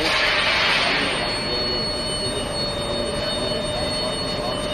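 Steel pipe induction annealing line running: a steady industrial drone with several steady high whining tones. A burst of hiss swells in about the first second, then settles.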